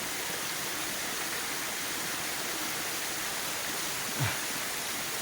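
Waterfall rushing steadily, an even hiss of falling water. About four seconds in, a brief low sound that drops in pitch stands out over it.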